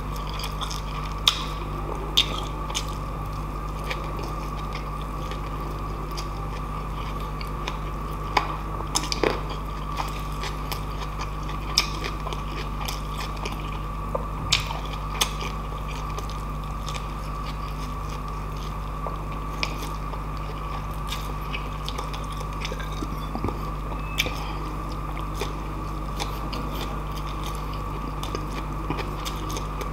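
Close-miked chewing and mouth sounds of a person eating rice, pork and noodles by hand, with scattered sharp smacks and clicks. A steady low hum runs underneath.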